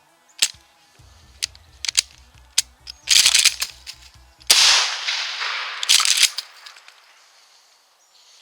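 Shotgun turkey hunt: a few sharp clicks, including a dud shell's failed first pull, and loud noisy bursts, then a single shotgun blast about four and a half seconds in that rings out for most of a second, followed by more noisy bursts near six seconds.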